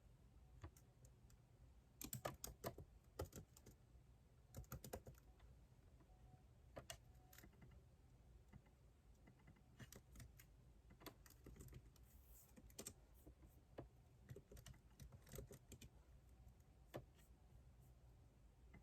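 Typing on a computer keyboard, faint: irregular runs of keystroke clicks in short bursts with pauses between.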